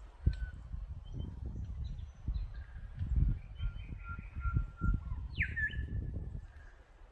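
Australian birds calling outdoors: short chirps and whistles, with one sharply falling whistle that levels into a held note about five and a half seconds in. Under them is a louder, uneven low rumble.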